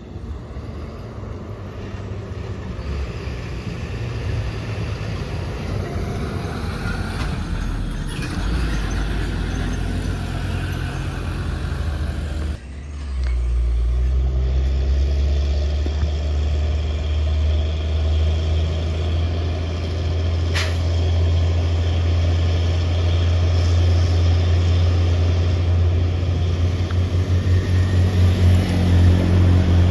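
Heavy truck's diesel engine labouring up a steep climb under load, a steady low drone. It dips for a moment about halfway, then comes back louder, and pulses more quickly near the end.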